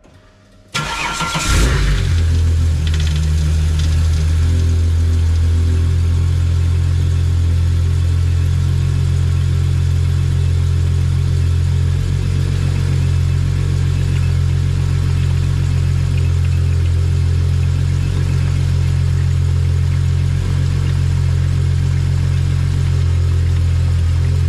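Holden VY Commodore engine cranked by the starter and catching within about a second, then idling steadily. It runs so the automatic transmission's pump pushes the fluid out through the disconnected cooler lines into a drain pan.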